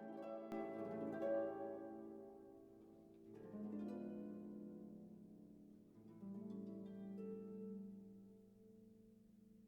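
Gentle instrumental background music of plucked string notes that ring and fade, with a new chord struck about every three seconds.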